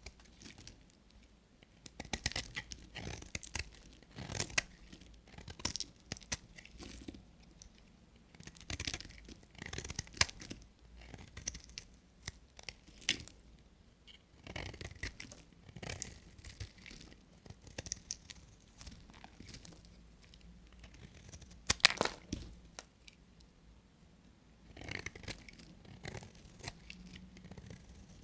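A knife cutting through dry bar soap: a series of crisp, crackly crunching strokes, one every second or two, the loudest about three quarters of the way through.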